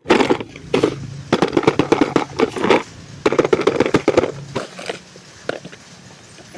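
Hands handling and opening a toy's packaging: irregular bursts of rustling, crinkling and clicking, which thin out to a few scattered clicks after about four and a half seconds.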